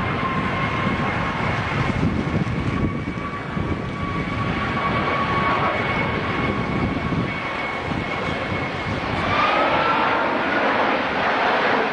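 Jet airliner's engines running with a steady rushing sound and a high whine, during a takeoff in strong wind. About nine seconds in, the whine fades and a new tone rises in pitch.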